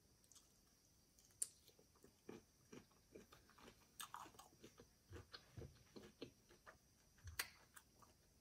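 Faint chewing of cold cooked shrimp with cocktail sauce: soft, irregular mouth clicks and smacks, with a sharper click about a second and a half in.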